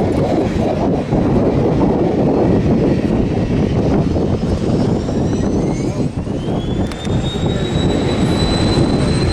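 Small jet's engines spooling up to full throttle for takeoff: a steady jet roar, with a high whine that rises in pitch about six seconds in and then holds steady.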